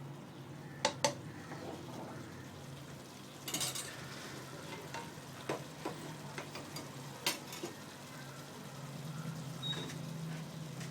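Spoon stirring chicken, masala and yogurt in a pot over a gentle sizzle, scraping and clinking against the metal, with a pair of sharp clinks about a second in. A low steady hum runs underneath.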